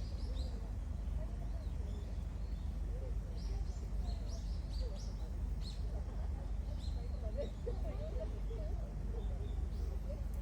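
Small birds chirping in short runs of quick notes, over a steady low rumble and a faint murmur of distant voices.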